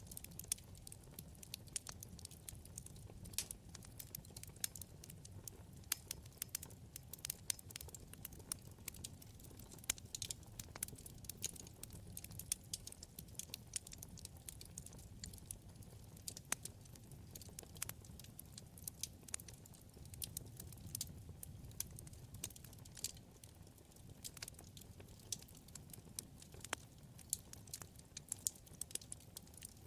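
Wood fire crackling: a steady low rumble of burning logs with many small irregular pops and snaps, a few sharper ones standing out.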